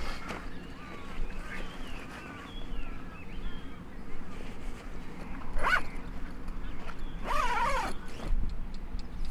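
Faint chirping early on, then two louder animal calls, the second one wavering up and down for under a second.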